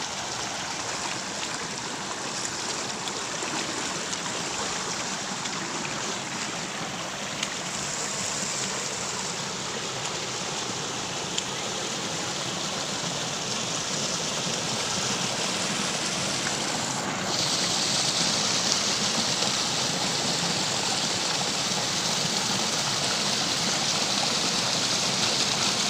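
Steady rush of flowing stream water, growing a little louder and hissier about two-thirds of the way through.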